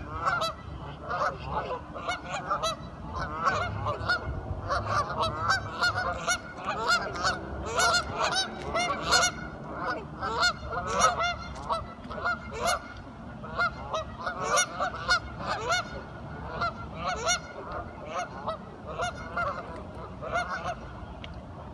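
A flock of ducks quacking and calling, with many short calls overlapping without a break.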